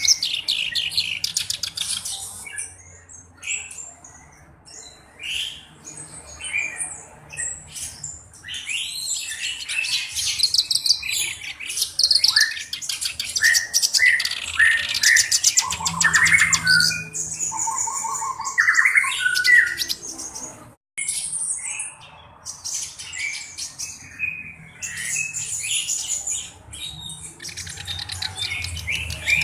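Black-browed reed warbler (kerak basi alis hitam) singing a long, varied song of rapid chattering trills and harsh, scratchy notes. The song breaks off for a moment about two-thirds of the way through.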